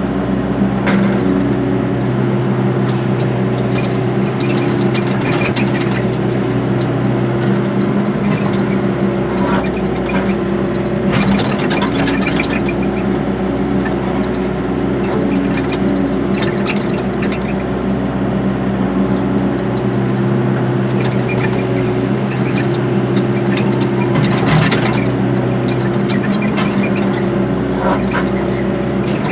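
Excavator's diesel engine running steadily, with metallic clanks and rattles now and then, most clustered about eleven seconds in and again near twenty-five seconds.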